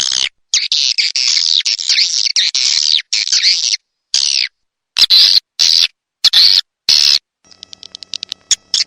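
Swiftlet lure-call recording: bursts of rapid, high chirping twitters that start and stop abruptly, with short silences between them. Near the end come about a second of faint rapid clicks.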